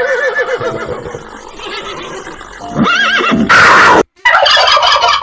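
Horse whinnying: a long quavering whinny at the start, a second call about three seconds in, then a loud harsh burst and rough noisy calls.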